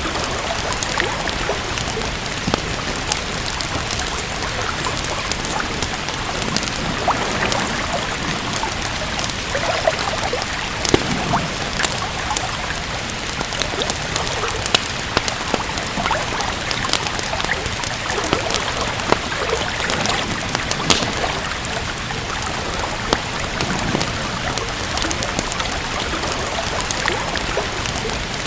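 Steady rain with many scattered, sharp crackles and pops of a wood fire.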